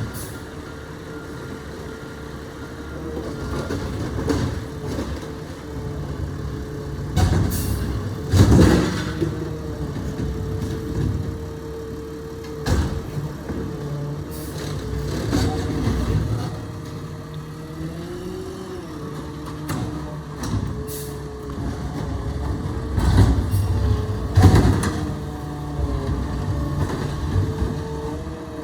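Garbage truck running with a steady whine over its engine, with loud bangs and thuds in two clusters, about a third of the way in and again near the end.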